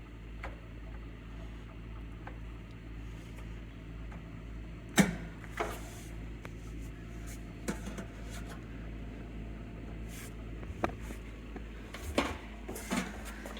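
Steady low hum of a reverse osmosis system's pump running, with scattered knocks and clicks of handling under the sink, a sharp knock about five seconds in.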